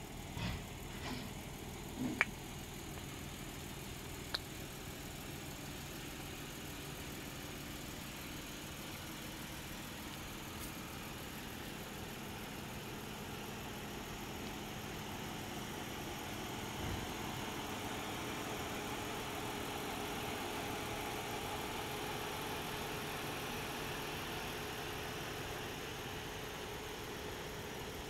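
Lexus GS300's V6 engine idling steadily and faintly, with a few light clicks in the first few seconds.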